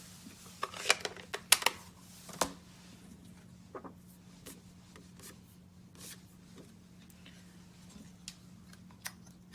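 Paper and cardstock being handled on a craft table: a few sharp taps and rustles in the first couple of seconds, then scattered faint ticks, over a faint steady hum.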